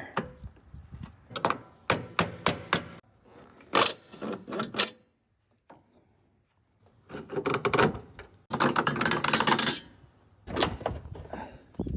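Hand tools knocking and clanking on a stuck bolt in a pontoon boat's rail, with two stretches of rapid clicking in the second half.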